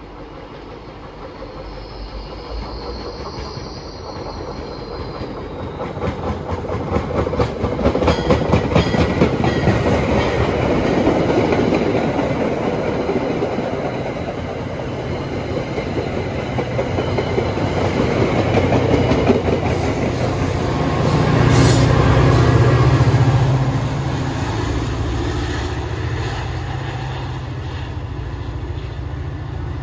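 MBTA commuter rail train passing close by at speed: the rolling noise of its wheels builds as it approaches, with a dense run of clicks over the rail joints. A low engine drone swells to its loudest about three-quarters of the way through, then eases.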